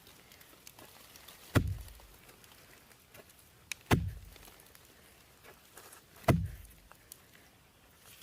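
Three heavy blows struck at a slow, even pace, about two and a half seconds apart, each a sharp thud with a short, low ringing tail.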